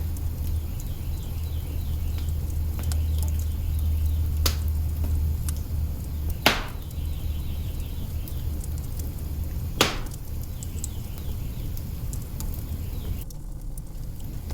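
Wood fire burning in an open hearth, crackling with scattered small clicks over a low steady rumble, with three louder, sharper pops from the burning logs.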